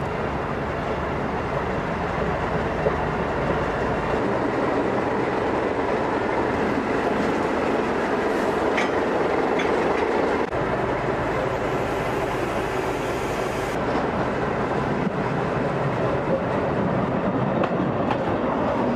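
Diesel locomotive running at low speed, its engine drone mixed with wheels clicking over rail joints; the sound changes about halfway through, where a second railway vehicle takes over.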